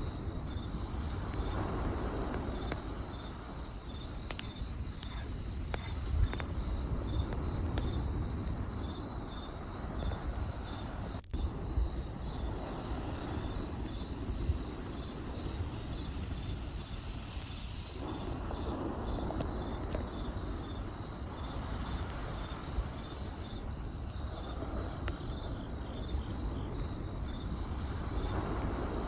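Campfire crackling with scattered sharp pops, over crickets chirping in a steady, high, evenly pulsing trill.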